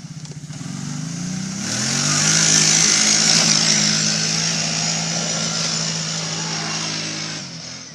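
ATV engine revving up under hard throttle, its pitch climbing over the first two seconds, then held high and steady at full pull as it climbs a steep hill, fading near the end.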